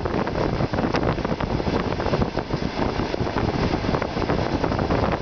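Long-distance passenger train running at speed, heard from inside the carriage at the window: a steady rushing noise of wheels, rails and air, with one sharp click about a second in.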